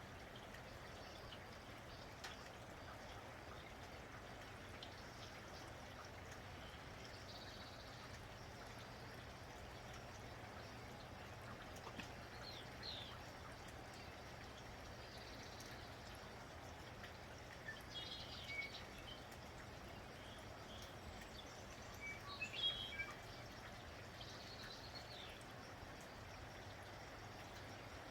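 Steady light rain with birds chirping now and then: short high chirps around 12 seconds in, a burst around 18 seconds, and the loudest cluster of chirps around 22 to 23 seconds in.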